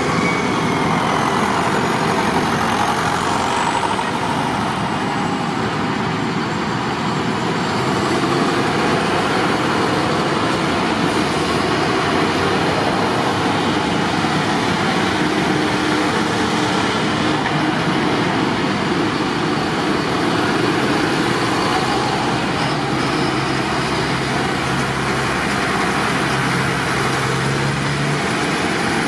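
Tractor engines running steadily under a constant dense rush of noise, with no break or sudden event.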